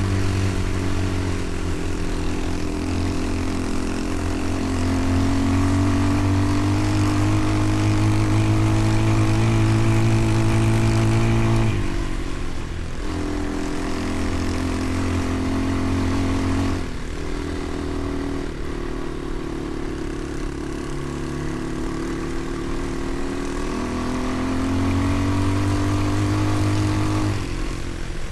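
Motorcycle engine running while riding, its pitch climbing slowly as it pulls and then dropping sharply three times, about midway, a few seconds later and near the end, as the throttle is rolled off or a gear is changed.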